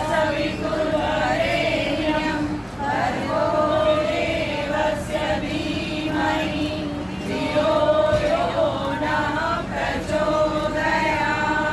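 Many voices chanting together in unison, with long held notes that bend in pitch.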